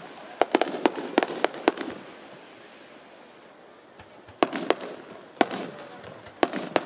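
Aerial firework shells bursting: a quick run of sharp cracks and bangs in the first two seconds, a lull, then more bursts from about four and a half seconds in and again near the end.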